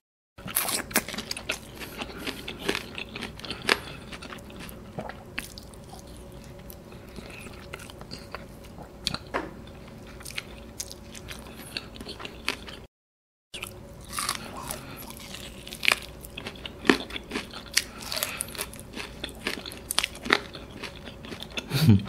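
Close-miked biting and chewing of bone-in fried chicken karaage coated in buttermilk sauce: a steady run of small crunches, clicks and wet mouth sounds. The sound drops out to silence briefly twice, near the start and about halfway.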